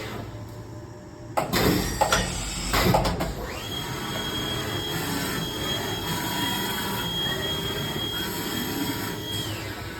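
Chevalier EM2033L vertical machining center running a program. A few sharp clunks and hisses come between about one and a half and three seconds in. Then the spindle whine climbs to a steady high pitch, holds, and winds down near the end.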